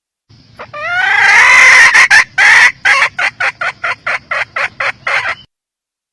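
A junglefowl hen calling. It gives a rising call that swells into one long loud note, then a rapid run of short clucks, about four to five a second.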